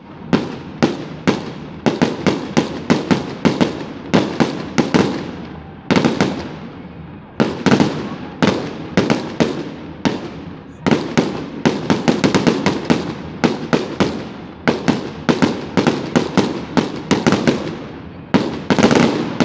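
Fireworks bursting overhead in a rapid, irregular string of bangs, several a second, each trailing off in echo. There are brief lulls about six, seven and ten and a half seconds in.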